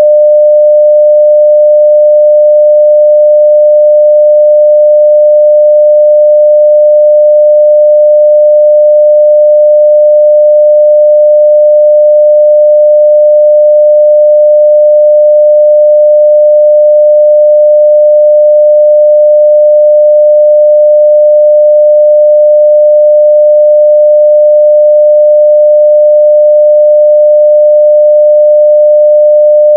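A continuous 600 Hz sine-wave test tone at full level (0 dB), one steady pure pitch that does not change.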